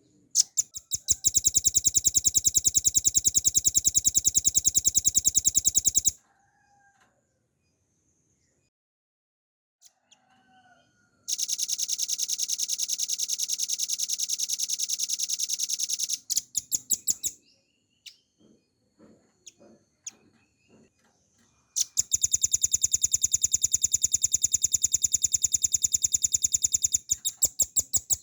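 Velvet-fronted nuthatch (rambatan paruh merah) singing its fast, rattling trill three times, each trill lasting about five seconds and breaking up into a few separate slower notes at its end, with faint short calls in the pauses between.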